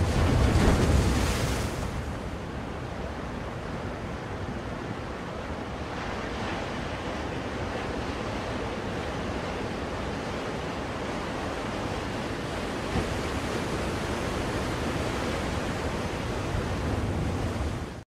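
Ocean waves breaking on a shore, played as a soothing white-noise track. A louder wave surges in over the first two seconds, then the surf settles into a steady wash.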